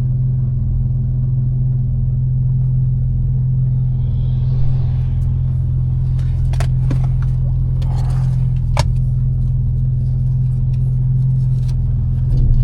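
A tuned BMW M4's twin-turbo straight-six, with catless downpipes and a Fi exhaust, drones steadily at an even cruise with no revving. From about six seconds in there is a scattering of sharp ticks.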